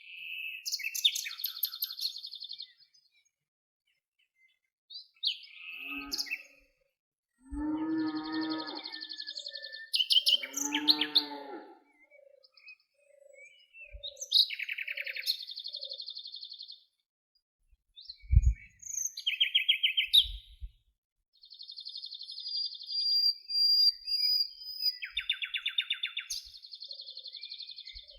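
Several songbirds singing and calling in turns: fast high trills and chirps, two harsher, lower calls about 8 and 11 seconds in, and a slow series of soft low notes in the middle. A brief low thump about 18 seconds in.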